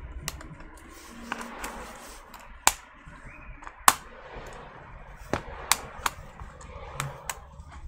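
Scattered sharp clicks and taps of small hard plastic and metal laptop parts being handled, at uneven intervals, two of them louder than the rest.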